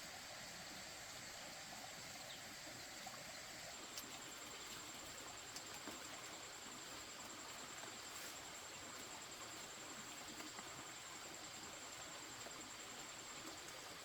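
Faint outdoor background: a steady hiss with a thin, high, continuous insect trill and a few soft ticks.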